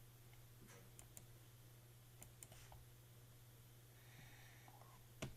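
Near silence with a steady low hum and a few faint, scattered computer mouse clicks, the loudest click near the end.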